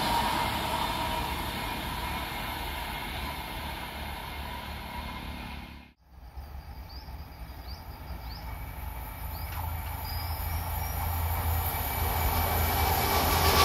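An express train running past on the rails, its noise fading away. After a cut, a few faint high chirps sound over a low steady hum from the next train, which grows louder as it approaches.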